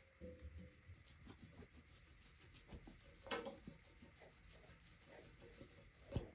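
Faint rubbing and small handling noises, with a louder scrape about three seconds in and a short knock near the end.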